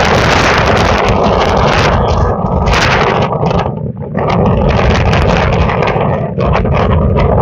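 Typhoon wind gusting hard over the microphone: a loud, rushing noise that rises and falls, easing briefly about four seconds in before building again.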